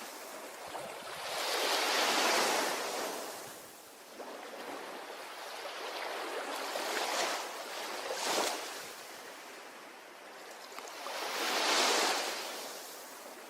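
Ocean waves breaking and washing up a beach in slow surges, each rising to a hiss and falling away: one about two seconds in, two smaller ones around seven and eight seconds, and a last big one near the end.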